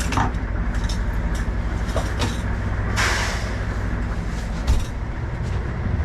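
Diesel truck engine idling with a steady low rumble, with a few light clicks and a short hiss about three seconds in.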